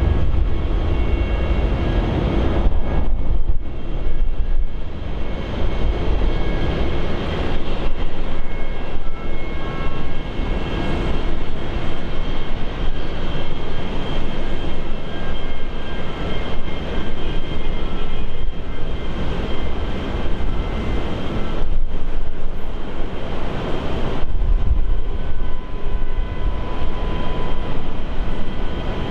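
Jet airliner engines running loudly and steadily, with several steady whining tones over the broad engine noise.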